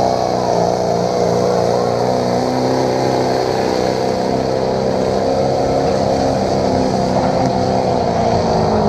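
Ford pickup truck's engine running hard at high RPM under load during a sled pull, a loud steady drone whose pitch wavers slightly and sags a little near the end.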